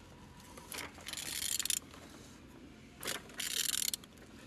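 Ratchet wrench clicking in two strokes, each about a second long, as a PSA DW8 diesel engine is turned over by hand; the engine turns freely.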